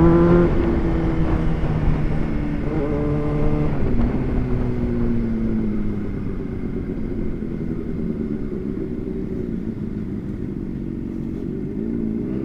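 Honda CBR600RR sport motorcycle engine on the move, its pitch rising and falling with the throttle, falling away steadily about four seconds in, then running lower under steady wind and road noise.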